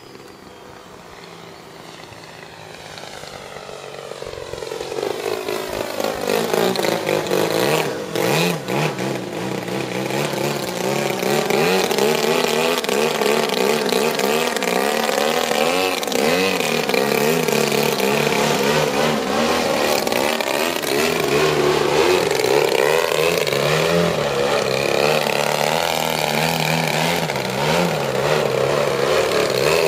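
The 120cc gasoline engine of a large radio-controlled Edge 540 aerobatic model plane running in flight. It grows louder over the first several seconds, then stays loud, its pitch sweeping up and down again and again as the plane passes and the throttle changes.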